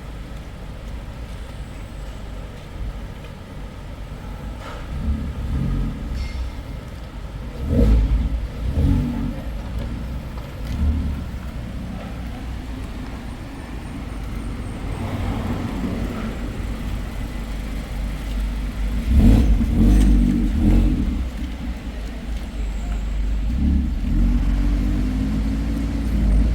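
Mazda MX-5 RF's four-cylinder engine and road noise on the move, a steady low rumble with louder surges about a third of the way in and again past the middle. Near the end the engine revs up with a rising note.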